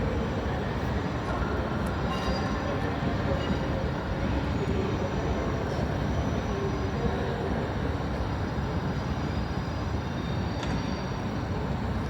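Train running on rails: a steady rumble that holds at an even level, with faint whines above it and a few light clicks.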